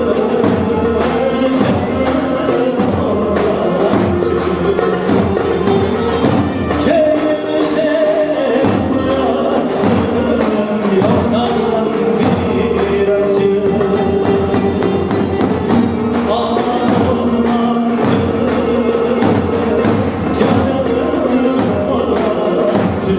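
Live band playing a Turkish folk song (türkü) with a steady percussion beat and sustained melodic lines.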